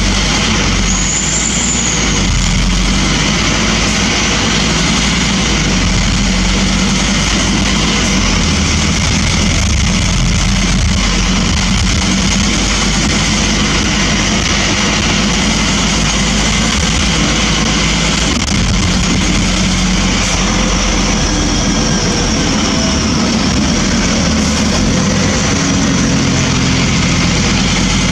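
Scania N230UB bus's five-cylinder diesel engine running steadily, with road and body noise.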